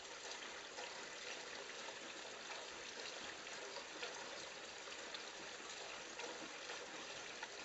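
Gasoline pouring steadily through a funnel into a snowmobile's fuel tank, a continuous faint trickle.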